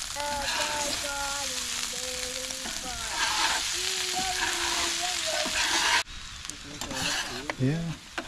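Diced potatoes and meat sizzling on a hot flat-top griddle while a metal spatula stirs and scrapes them. The sizzle cuts off abruptly about six seconds in, followed by a few light clicks and scrapes.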